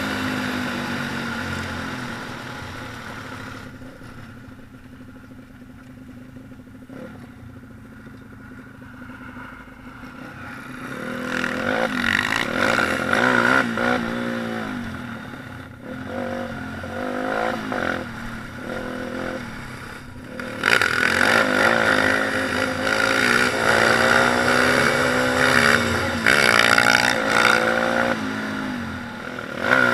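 Pit bike engines: one fades away at first, then from about ten seconds in they rev up and down through the gears, and from about twenty seconds in they are loud and close, revving hard.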